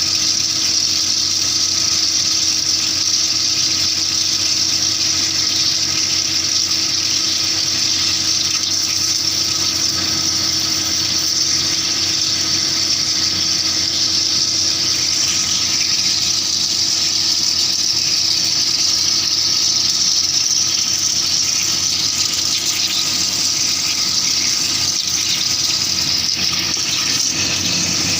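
CNC drilling machine running steadily: a constant hum under a loud, even hiss that does not change.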